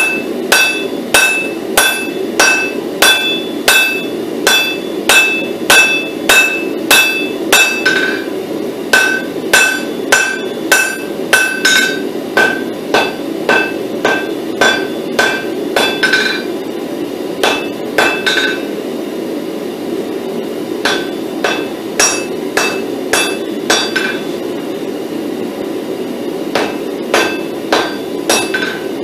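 Blacksmith's hand hammer forging a hot pattern-welded steel billet on an anvil, about two blows a second with a ringing anvil tone after each, drawing out the blade. The blows pause briefly past the middle, then resume more sparsely, over a steady low rushing noise.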